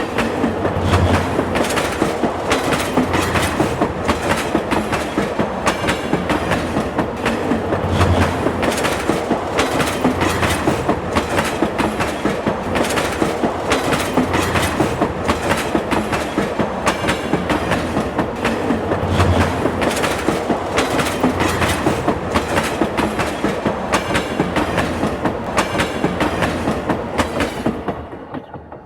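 Train cars rolling past with the wheels clattering over the rail joints in a fast, steady clickety-clack, with low thuds every second or two. The sound stops abruptly near the end.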